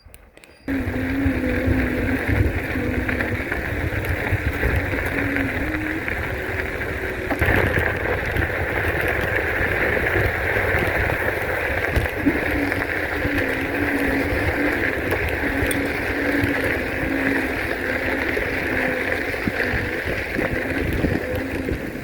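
Wind rushing over the microphone while riding an electric bike, with a wavering hum from the bike's electric motor. It starts suddenly about half a second in and keeps on steadily.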